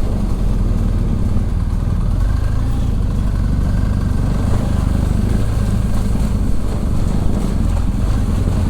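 Motorcycle being ridden at a steady pace, its engine running evenly with a steady low rumble.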